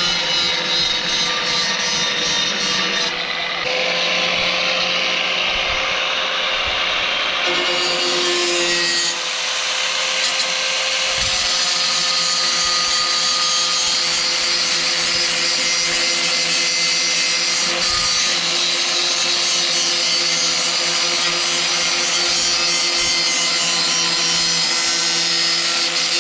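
Angle grinder cutting through the rusted sheet metal of a truck fender: a loud, steady grinding hiss over a constant motor whine, with the tone shifting a few times in the first ten seconds.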